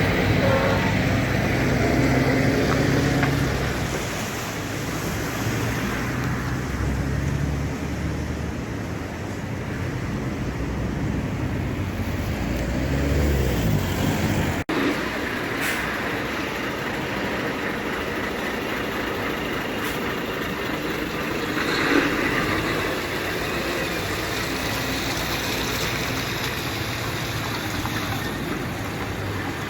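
Trucks driving past on a road: engine rumble and traffic noise, with an abrupt cut about halfway through to more passing traffic.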